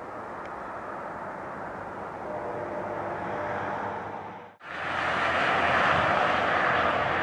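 Rear diesel locomotive and cars of a coal train moving away down the track, a steady rumble with a faint engine tone. The sound drops out briefly about four and a half seconds in and comes back louder.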